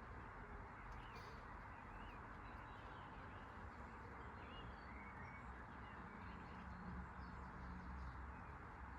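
Faint bird chirps, a few short calls scattered through, over a steady low hum and hiss.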